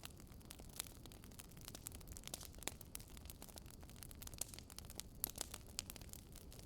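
Faint wood fire crackling: irregular sharp pops and snaps over a low, steady rumble of burning.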